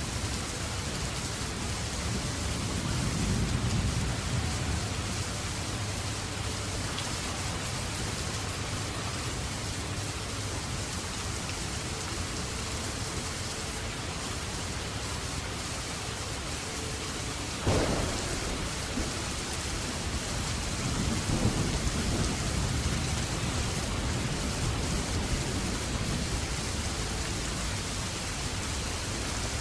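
Steady rain falling, with a low rumble of thunder early on, a sharp thunderclap a little past halfway, and rolling thunder after it.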